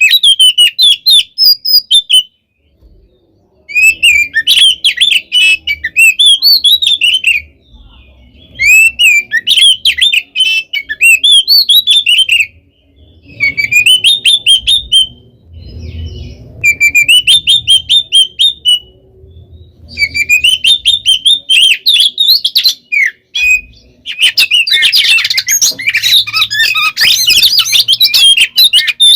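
Oriental magpie-robin (kacer) singing loudly in rapid bouts of varied whistles and chatter, each a few seconds long with short pauses between. About five seconds from the end the song turns into a denser, harsher unbroken run. This is the full, aggressive fighting song of a male, the kind used to provoke other magpie-robins into singing back.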